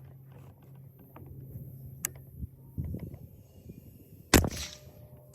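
A single shot from a 6.5 Grendel AR-15-type rifle with a 12.5-inch Sons of Liberty Gun Works barrel, about four seconds in, sharp and loud with a brief echo trailing it. A few faint clicks come before it.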